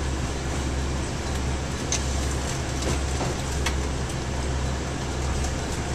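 Train running on the line, heard from inside the carriage: a steady low hum under the even rumble of the wheels on the track, with a couple of faint clicks.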